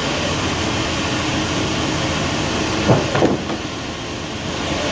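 Sawmill machinery running steadily, with a brief sliding squeal about three seconds in, after which the noise drops slightly for a moment.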